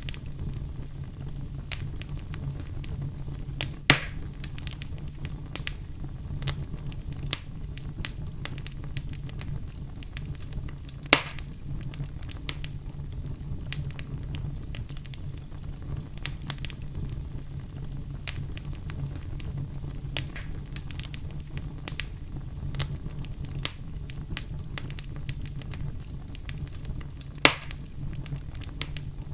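Wood fire in a fireplace crackling, with many small snaps over a steady low rumble. Three louder pops come about 4, 11 and 27 seconds in.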